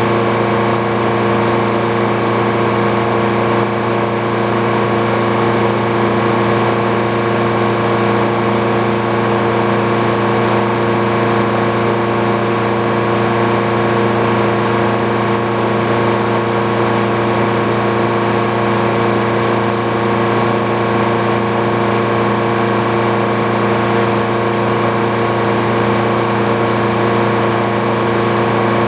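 Engine powering a Frick sawmill, running steadily at constant speed with no change in pitch or load.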